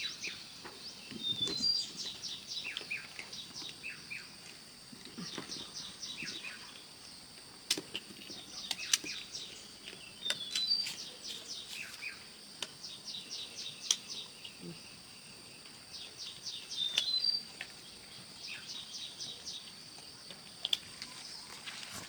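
A bird singing the same short phrase over and over, a run of fast high ticking notes ending in a few whistled notes, about every seven to nine seconds. A faint steady high tone runs underneath, and a few sharp knocks come in the middle.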